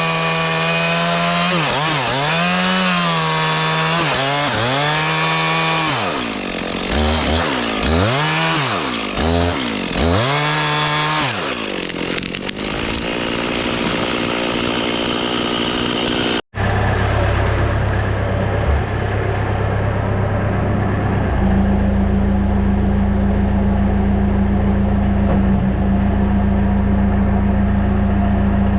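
An engine revs up and down repeatedly for several seconds and then settles. After an abrupt cut about halfway through, a heavy machine's engine runs steadily, picking up speed a few seconds later.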